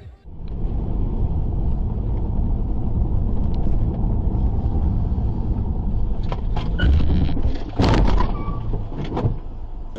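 Car's road and engine rumble heard from a dashboard camera, steady and low, with several short knocks and a louder burst of noise about eight seconds in.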